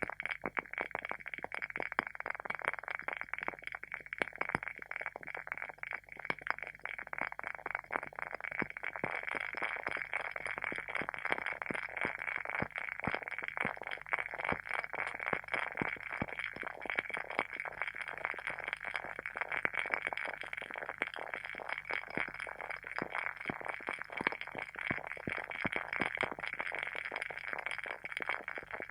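A WoodWick candle's wooden wick burning with a continuous crackle of many small, rapid, irregular pops, like a tiny campfire.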